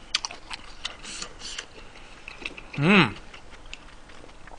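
A man chewing food close to the microphone: scattered small mouth clicks and smacks, with a short hummed "mm" that rises and falls in pitch about three seconds in.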